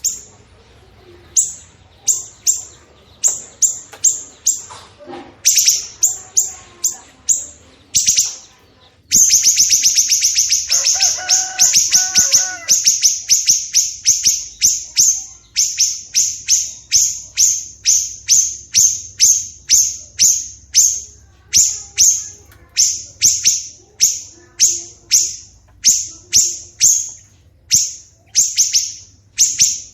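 Songbird calling in fast repeated series of sharp, high, downward-sweeping chips, with a dense unbroken run about a third of the way in. A lower, warbling call briefly overlaps it.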